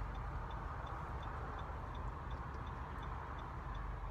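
Steady low rumble inside a car cabin, with a faint, even ticking about three times a second, typical of a turn-signal or hazard indicator.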